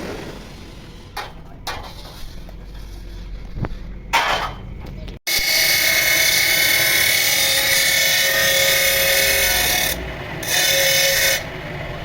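A power tool running loudly and steadily for about five seconds, stopping briefly, then running again for about a second, after a few short rustling handling noises.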